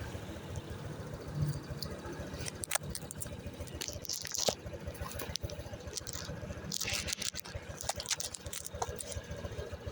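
Motorcycle engine idling with an even low pulsing, with scattered clicks and short hissing rustles about four and seven seconds in.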